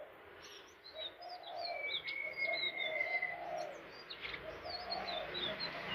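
Flycatcher song: quick, thin, high chirps and twitters, with one long level whistle about two seconds in. Repeated low cooing notes run underneath.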